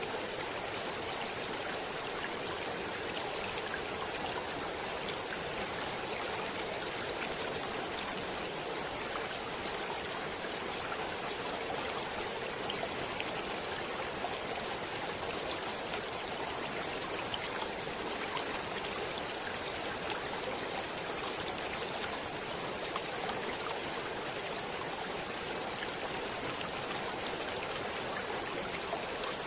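Stream water flowing steadily: an even rush with fine splashing and no change throughout.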